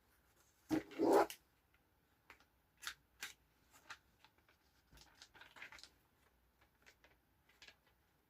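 Paper and scissors handled at a table: small scattered clicks, snips and rustles, with a louder burst of handling noise about a second in.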